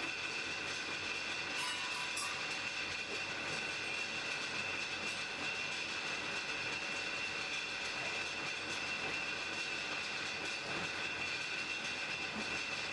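Blacksmith's forge fire burning: a steady rushing noise with a steady high tone running over it and a few faint crackles.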